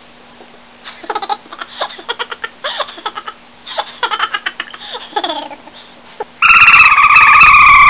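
A sped-up, chipmunk-pitched voice making short giggly laughing noises in quick bursts. About six seconds in, a much louder, steady high-pitched tone cuts in and holds.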